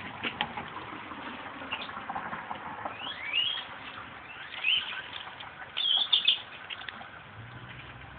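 Newborn puppies squeaking: short, high-pitched rising squeals, a couple about three seconds in, another near five seconds and a cluster around six seconds.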